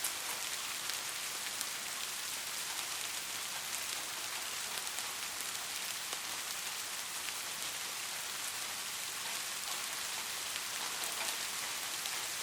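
Steady rain falling on a surface, a constant hiss with many small drop ticks and no thunder.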